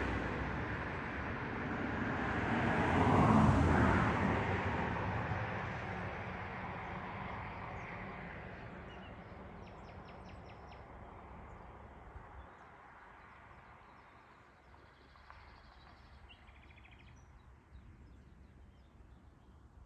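A vehicle passing on the road, loudest about three seconds in and then slowly fading away over the next ten seconds. Faint bird chirps come through in the middle and later on.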